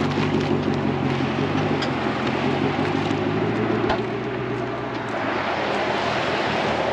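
Camaro engine idling warm through an open exhaust that ends just after the X-pipe, with no tips fitted. A single knock about four seconds in, after which the running is quieter.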